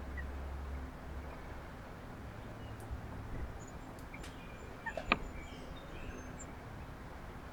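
Wild birds calling at a backyard feeder: faint high chirps, then a brief louder burst of sharp calls about five seconds in, over a low steady background rumble.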